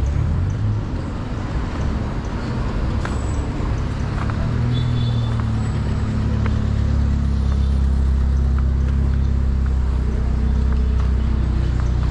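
Honda XR 250 Tornado's single-cylinder four-stroke engine running under way, its note firming up and holding a steady pitch from about four seconds in.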